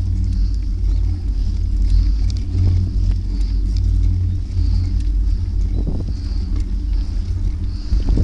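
Steady low rumble of wind and road noise while riding a bike, with a faint hiss that swells and fades.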